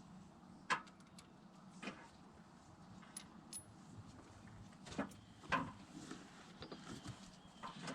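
A few sharp metal clinks and knocks of rocker arm parts being handled and set onto a Cummins 5.9 diesel's cylinder head, the loudest about a second in, over a faint steady hum.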